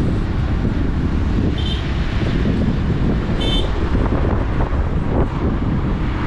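Riding a motorbike on the road, with wind buffeting the microphone over the engine and road noise. A horn gives a short beep about a second and a half in, and another about two seconds later.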